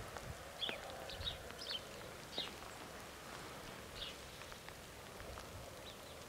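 Small birds chirping: a scatter of short, high calls, several in the first two and a half seconds and a couple more later, over faint outdoor background rumble.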